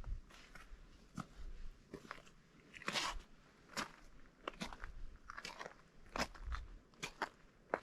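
Footsteps crunching on partly melted, granular spring snow at a steady walking pace, a crisp crunch with each step.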